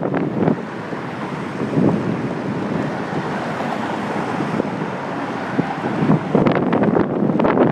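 Wind buffeting the microphone of a handlebar-mounted phone on a moving bicycle, a steady loud rush. Near the end a quick run of knocks and rattles breaks in.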